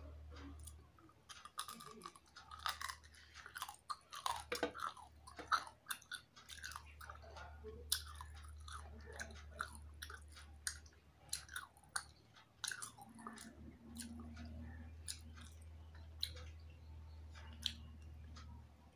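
A person chewing hilsa fish and rice with the mouth close to the microphone: many short, irregular wet smacks and clicks. A low steady hum runs underneath.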